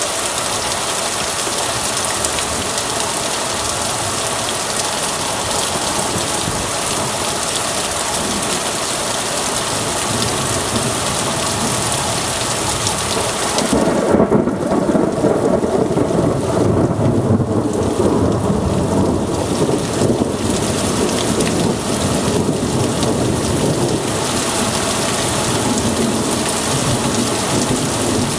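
Heavy downpour of rain falling steadily. About halfway through, a long rumble of thunder rolls in, loudest at its start, and slowly fades over the next ten seconds or so.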